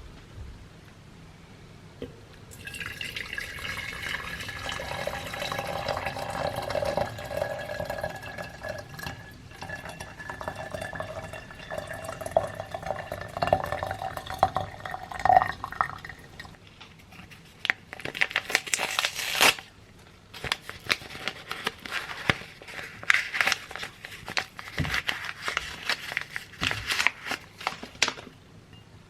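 Water running and pouring into a container for about thirteen seconds, its pitch rising gradually as the container fills. Then a series of irregular clicks, clinks and knocks from things being handled.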